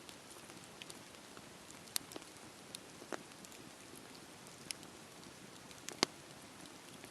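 Campfire burning: a soft, steady hiss with scattered sharp crackles and pops from the wood, the loudest pop about six seconds in.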